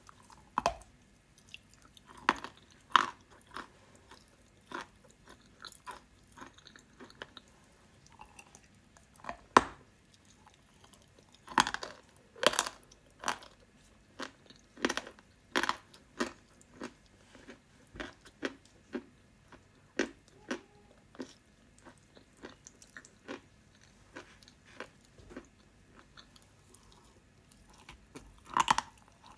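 Close-miked chewing of edible clay, with sharp crisp crunches coming at irregular intervals and quiet gaps between them.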